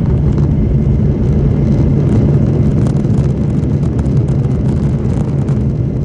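Aircraft engines running loud and close: a steady low rumble with crackling.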